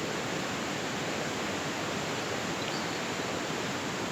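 Steady rushing noise of the River Erne's fast-flowing water, an even, unbroken hiss.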